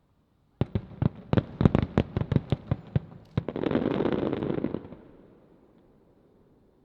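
Aerial firework shells bursting in quick succession, about a dozen sharp bangs over three seconds. They are followed by a dense rolling rush of overlapping bursts that swells and then fades away.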